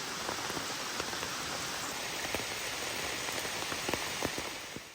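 Heavy rain pouring steadily, with single drops striking close by as sharp ticks; it fades out at the very end.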